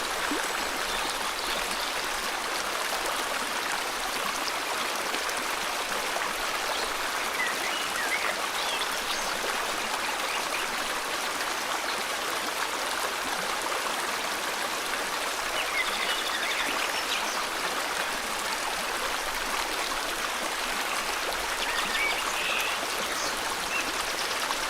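River water flowing in a steady rush, with a few faint bird chirps about a third of the way in, around the middle and near the end.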